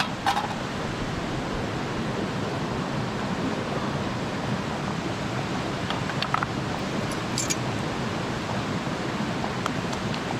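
A mountain stream rushing steadily, with a few faint clicks on top of it.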